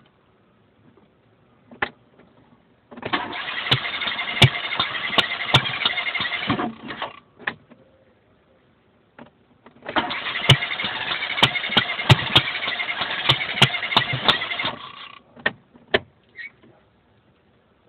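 An 899cc engine cranked on its starter twice, about four seconds each time, with sharp cracks through the cranking. Each time it stops without the engine catching and running: hard starting after a head gasket change.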